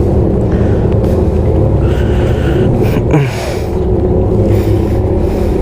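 Motorcycle engine idling steadily, with a brief falling tone about three seconds in.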